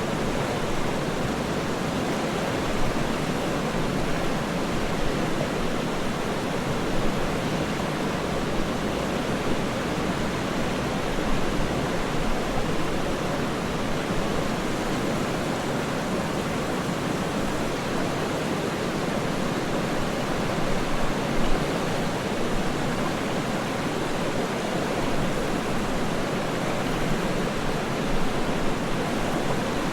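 Waterfall rushing steadily: a dense, even noise with small swells in level and no breaks.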